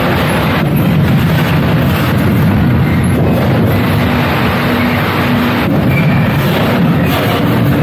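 Freight train being shunted slowly: the rumble of sliding-wall freight wagons rolling past, over a steady low drone.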